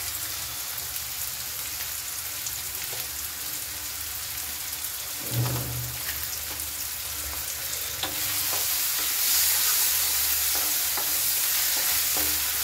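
Sliced onions sizzling in hot oil in a wok as they are stirred, with scattered light taps and scrapes on the pan. A low thump comes about five seconds in, and the sizzle grows louder about eight seconds in.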